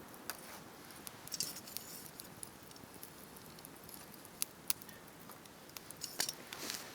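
Wood campfire crackling: irregular sharp pops and snaps, two louder ones about four and a half seconds in, with short hissing patches between them.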